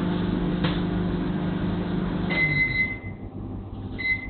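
Elica microwave oven running with a steady hum while a non-microwave-safe utensil inside it sparks, with one sharp snap about half a second in. A little over two seconds in the hum stops and the oven beeps, then beeps again near the end.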